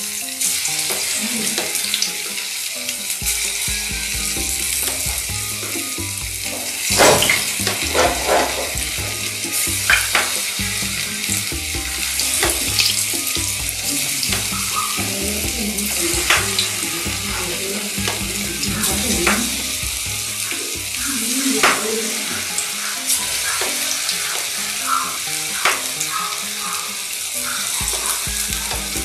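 Cassava fritters frying in hot oil in an aluminium frying pan: a steady sizzle with scattered sharp pops.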